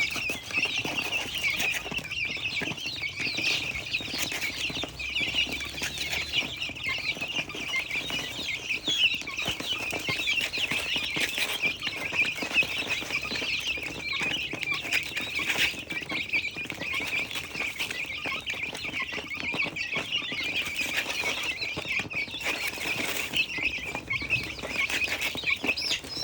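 A flock of birds calling all at once in a dense, unbroken chatter of short, high calls, the noise they make while feeding.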